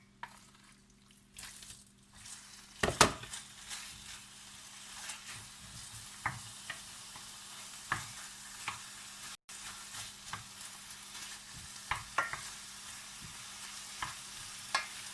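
Chicken pieces frying in butter in a hot pan. A steady sizzle starts about three seconds in, after a loud knock, with scattered sharp clicks through the rest.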